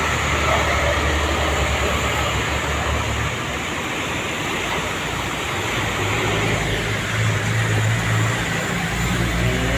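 Heavy rain falling steadily, with the low hum of big trucks' engines passing on the road; the engine hum changes about three seconds in and grows louder again from about six seconds.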